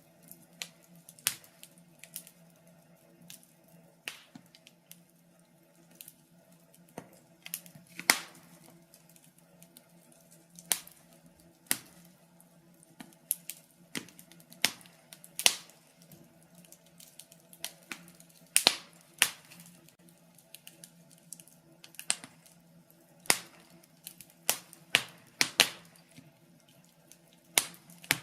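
Wood fire in a fireplace crackling, with irregular sharp pops at uneven intervals, a few of them loud, over a faint steady hum.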